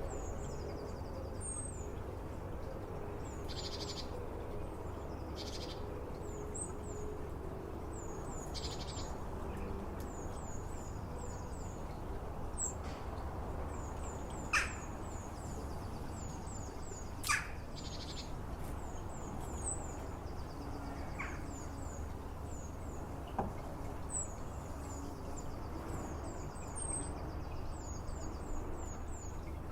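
European goldfinch twittering: quick runs of short, high, down-slurred notes repeating throughout over a steady low background rumble. Two sharp clicks stand out near the middle.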